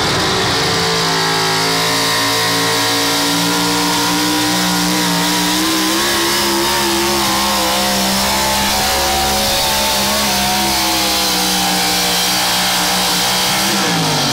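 Competition pulling vehicle's engine running loud at high, fairly steady revs during a pull, its pitch wavering slightly. Near the end the revs fall away quickly.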